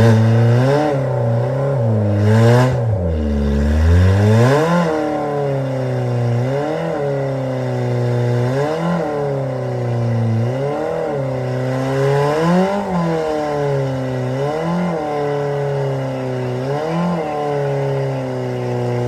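Car engine with its exhaust pipe torn off, revving up and falling back about every two seconds as the car sits stuck, the detached exhaust pipe jammed under it.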